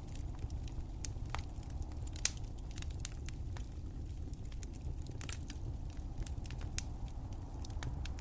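Fireplace fire crackling: irregular sharp pops and snaps over a steady low rumble, with one louder pop a little over two seconds in.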